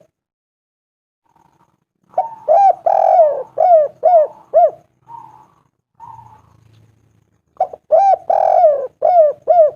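Spotted dove (tekukur) cooing in two phrases: after about two seconds of quiet, a run of about seven coos, each rising then falling in pitch, with a longer note in the middle; after a gap of a few seconds a second run of coos starts near the end.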